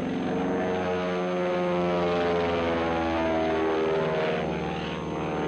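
Boeing Stearman biplane's 450 horsepower Pratt & Whitney nine-cylinder radial engine and propeller running steadily through an aerobatic pass, its pitch sinking gradually and then rising again near the end.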